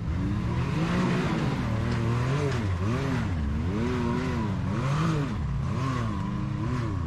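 Off-road rig's engine revving up and down about once a second as the driver works the throttle to climb over a rock ledge.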